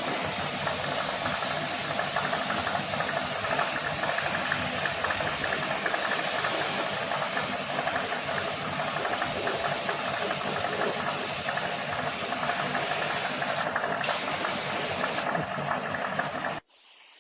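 A steady, loud hiss over a running motor, which cuts off suddenly near the end.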